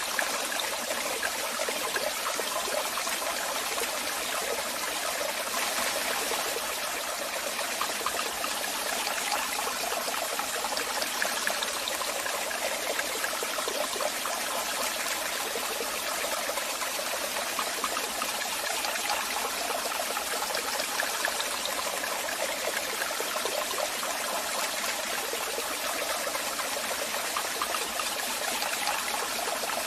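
Waterfall: water falling and splashing in a steady, continuous rush, mostly high hiss and splash with little deep rumble.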